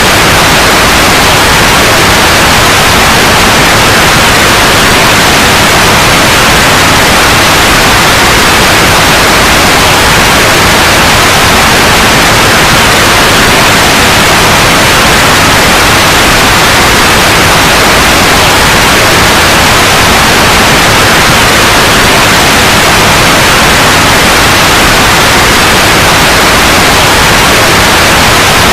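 Continuous white noise: a loud, steady hiss that does not change.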